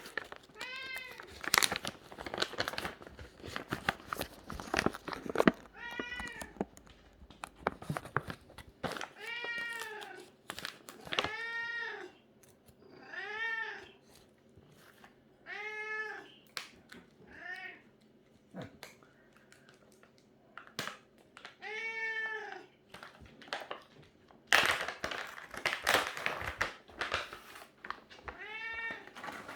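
Domestic cat meowing over and over: about a dozen long meows, each rising then falling in pitch. Scattered clicks and rustling noises come between them, thickest at the start and near the end.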